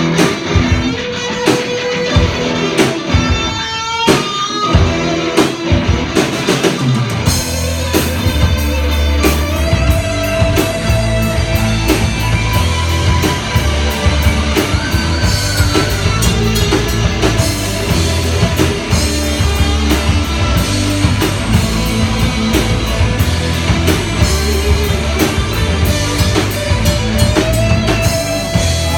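Rock band playing live, an instrumental passage on guitar and drum kit. A heavy bass line and the full band come in about seven seconds in.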